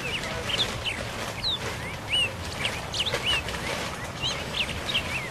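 Birds chirping: many short, quick calls that bend up and down in pitch, repeated irregularly throughout.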